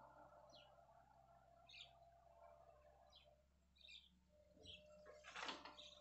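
Faint, short bird chirps repeating every second or so over a low steady hum, with a brief rushing noise near the end.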